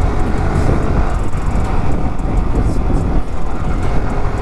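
Yamaha R15 V3 motorcycle's single-cylinder engine running while riding, mostly covered by a steady low wind rumble on the microphone.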